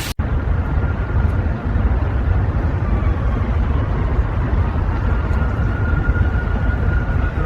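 A motor vehicle running: a steady low rumble with a faint high whine that drifts and rises a little about halfway through.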